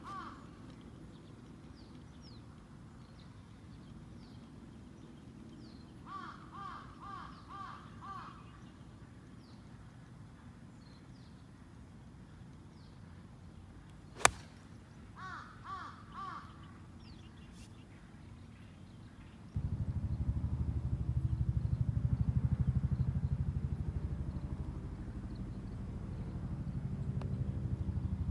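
Crows cawing in two short series of three or four calls, with a single sharp crack between them, the loudest moment, fitting a golf club striking the ball. About two-thirds through, a vehicle engine starts up and runs with a steady low rumble.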